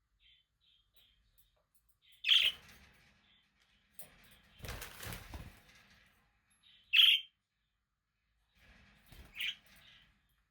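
Budgerigars chirping: two loud, short calls about two and seven seconds in, a softer one near the end, and faint twittering early on. Between them comes a noisy rustle lasting about two seconds.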